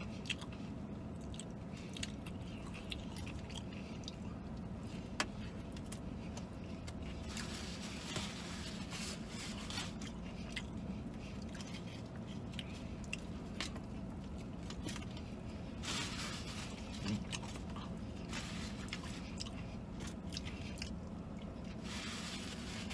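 A person chewing a fried chicken sandwich, with its paper wrapper and bag rustling and crinkling in short bursts, over a steady low hum.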